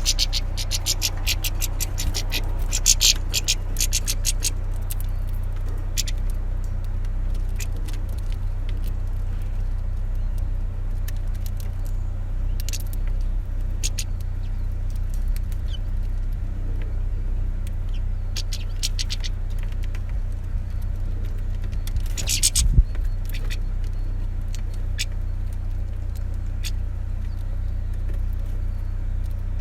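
Small finches at a seed feeder, pecking and cracking seed in short bursts of rapid sharp clicking and tapping, over a steady low rumble.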